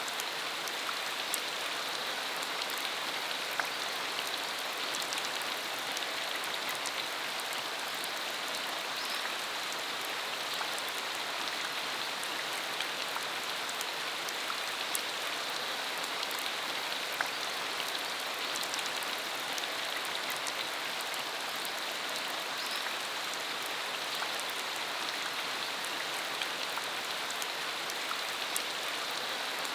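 Steady rain falling on a dirt country road: an even hiss dotted with many small sharp drop ticks.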